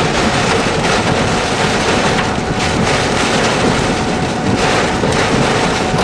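Storm wind and rain in a thunderstorm: a loud, continuous rushing noise that swells in gusts, with wind buffeting the microphone.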